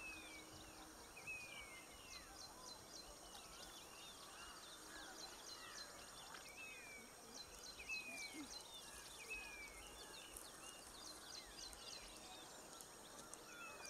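Faint outdoor birdsong: a short whistle that slides downward, repeated every second or two, over many quick, high chirps from other birds.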